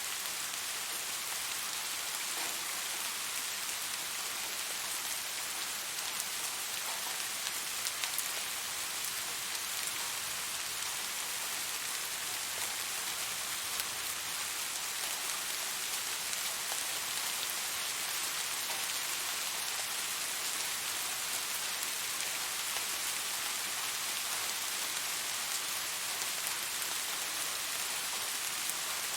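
Steady rain falling, a constant hiss with occasional distinct drops pattering on a surface.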